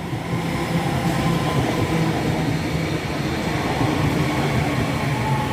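Passenger train of two coupled multiple units running into a station platform: a steady rumble of wheels and running gear with a low hum.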